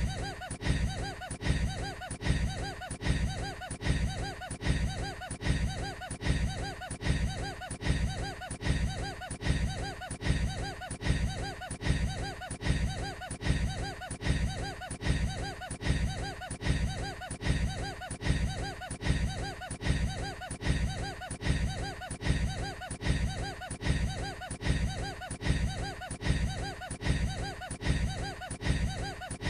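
A man's short, odd-sounding laugh, the same recording looped over and over at an even, rapid pace.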